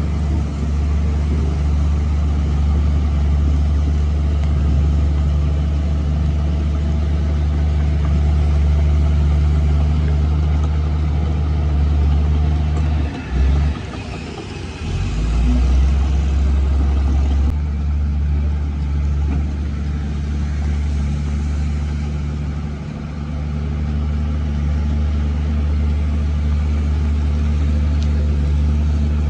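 Heavy diesel engine of an earthmoving machine running steadily, with a brief dip and change in the engine note about halfway through before it settles back to a steady drone.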